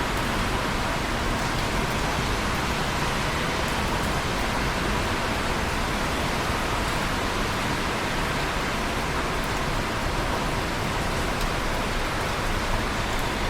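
Steady rain, a dense even hiss with faint scattered drop ticks.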